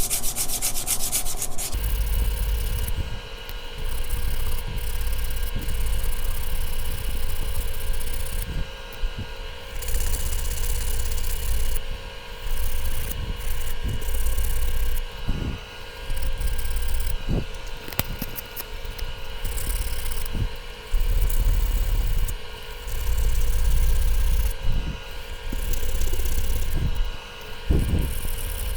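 Sandpaper rubbing on the metal mating surface of a 3S-GTE turbocharger, in rapid dense strokes for the first couple of seconds, then in uneven on-and-off bouts over a steady hum.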